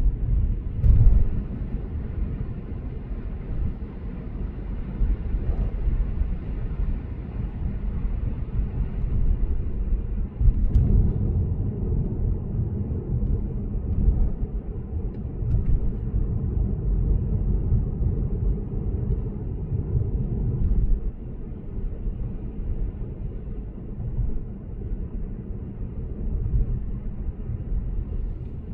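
Lexus GS450h sedan cruising on the expressway: a steady low road and tyre rumble. It swells into louder bumps about a second in and again about eleven seconds in.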